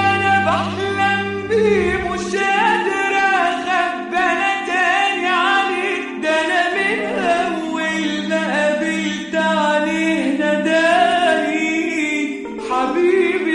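A song: a singing voice moving through a wavering, ornamented melody over a steady held low note. A deeper bass note drops out about two seconds in.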